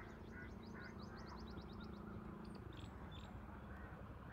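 Faint birds calling: a fast trill of short, high rising chirps through the first two seconds, with a few other short bird calls around it.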